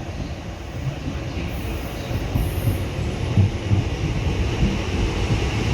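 A diesel passenger train running on the rails, a low rumble of engine and wheels that slowly grows louder, with a few knocks from the wheels over rail joints.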